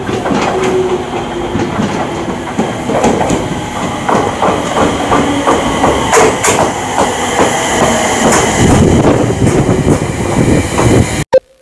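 JR East 701 series electric train pulling into a station platform and rolling past close by, its wheels clicking over the rail joints.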